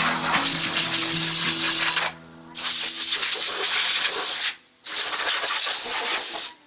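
Loud hiss of a pressurised spray, let off in three long bursts with short breaks between them.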